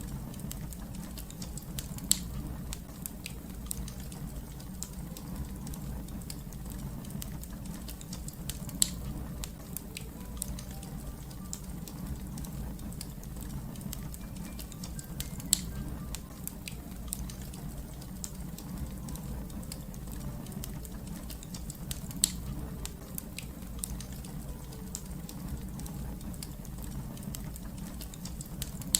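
Fire crackling: a steady low rumble under a constant scatter of small ticks, with four sharper, louder pops about seven seconds apart.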